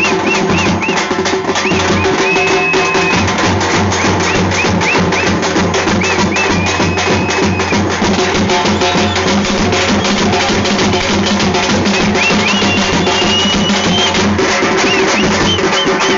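Dappu frame drums beating a fast, dense daruvu rhythm, with a high piping tone rising and falling again and again above the drumming.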